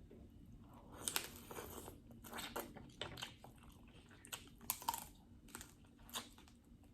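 Close-miked mukbang eating sounds: chewing and crunching of seafood boil, with irregular sharp clicks and short crackles.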